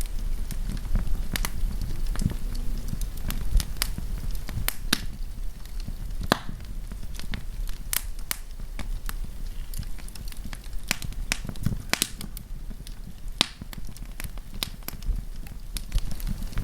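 Wood campfire crackling and popping: irregular sharp snaps, a few louder pops, over a low steady rumble of the burning fire.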